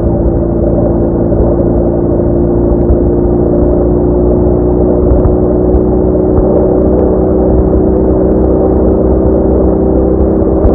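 BMW R1200R boxer-twin motorcycle running at a steady cruise, its engine drone over a heavy low rumble, pitch creeping up slightly.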